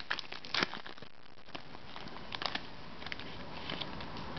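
Crinkling of a trading-card pack wrapper being handled as cards are drawn out: a quick cluster of crinkles in the first second, then a few scattered single crinkles.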